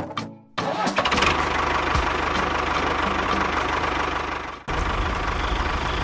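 A mini bulldozer's engine or motor running steadily with a fast, even chugging rhythm, starting about half a second in. It cuts out briefly near the end and then runs again with a different tone.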